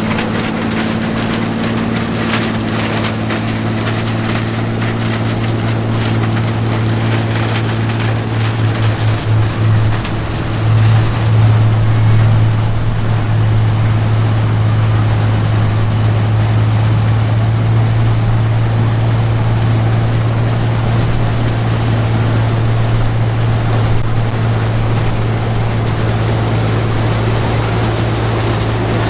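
John Deere 105 combine running as it harvests corn, a steady low engine drone. About a third of the way through the sound wavers for a couple of seconds, then holds steady a little louder.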